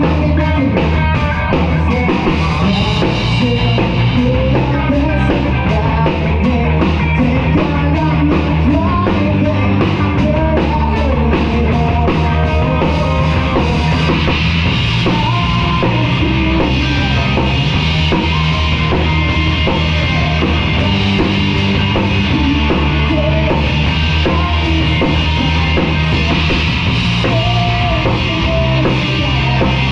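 Live rock band playing a song loudly and without a break: drum kit and bass driving under a busy melodic part.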